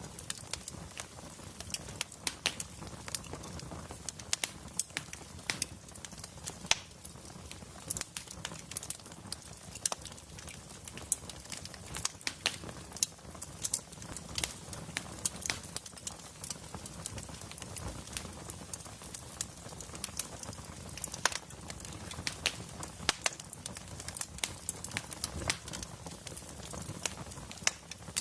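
Wood fire crackling: irregular sharp pops and snaps of burning logs over a soft low rumble of flame.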